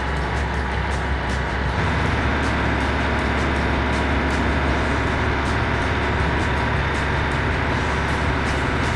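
Massey Ferguson 50 backhoe's diesel engine running steadily with a deep, even drone.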